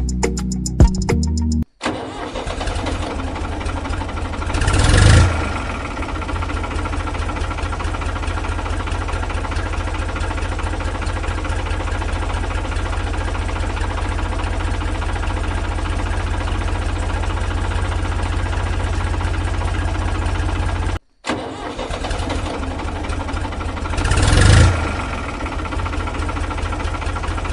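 Tractor engine sound effect running steadily, swelling louder twice, about five seconds in and again near the end. It cuts out for an instant about 21 seconds in and starts again.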